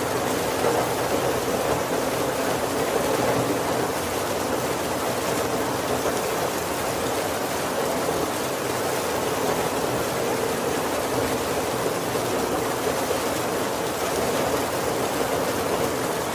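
Steady heavy rain falling on the roof and windows of a wooden carriage, heard from inside, with no thunder. It is an even, unbroken wash of rain noise.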